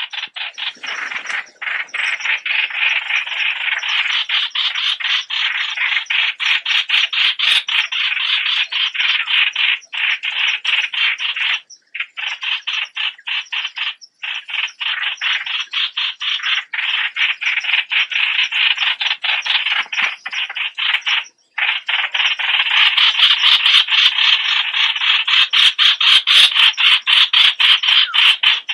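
Streak-eared bulbuls calling in a fast, continuous run of short repeated notes, about four or five a second, with a few brief breaks and somewhat louder toward the end.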